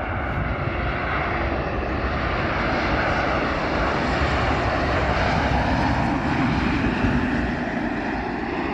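Southwest Boeing 737 MAX 8 on landing approach, its CFM LEAP-1B turbofan jet engines roaring steadily as it passes. A tone in the roar slides down in pitch about halfway through.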